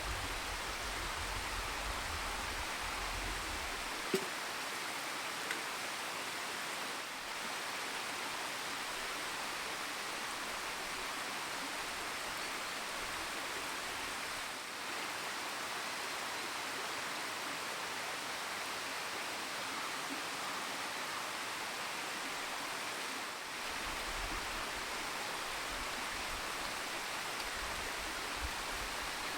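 Steady, even rushing noise, with a few faint single clicks.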